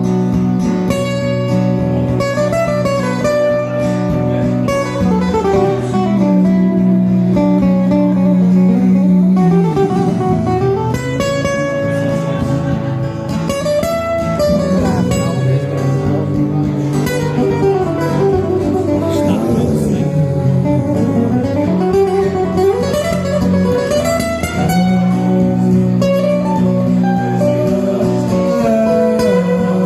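Live acoustic guitar instrumental, a picked melody running up and down over held bass notes and strummed chords.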